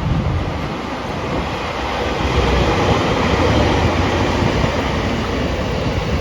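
A train running past on the line: a steady rush of wheel and rail noise that grows louder about two seconds in.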